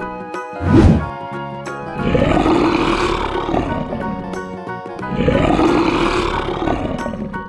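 Background music with two long animal calls, each about two seconds, rising then falling in pitch, and a low thump about a second in.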